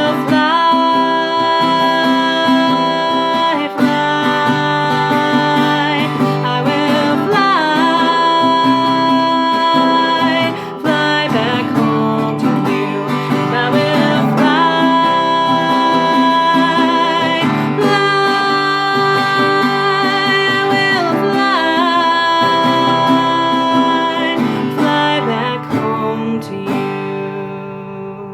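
Acoustic guitar strummed under a woman singing in long held notes, the song fading out near the end.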